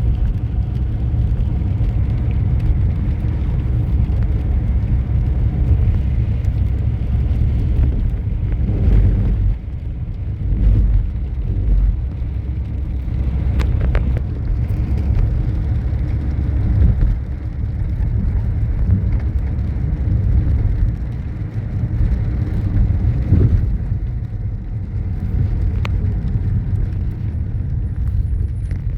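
A motor vehicle running with a steady low rumble, much like driving on a road.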